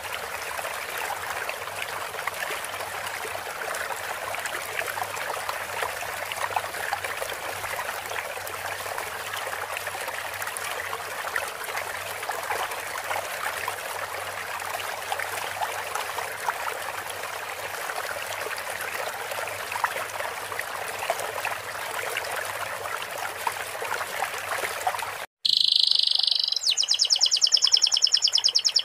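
Trickling, babbling stream water, steady for about 25 seconds, then cut off abruptly as a canary starts singing loudly in fast, evenly repeated trill notes.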